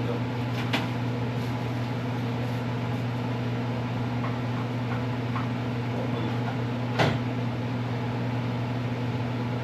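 Steady electrical hum, with a light click about a second in and one sharper knock about seven seconds in.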